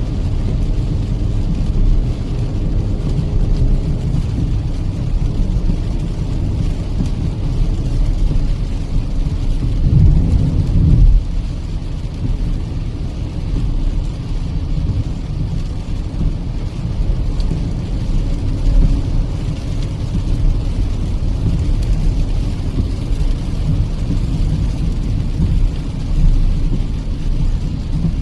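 Kia Seltos petrol car driving on a wet highway, heard from inside the cabin: a steady low rumble of road and engine noise mixed with rain. The rumble swells briefly louder about ten seconds in.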